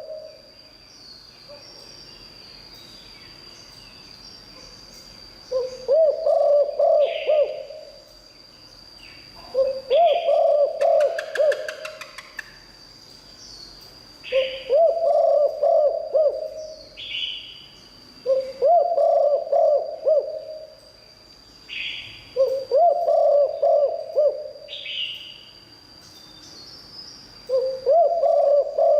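Spotted dove cooing: six repeated phrases of several rising-and-falling coos, about one phrase every four seconds. Each phrase is followed by a short high chirp, over a faint steady high whine.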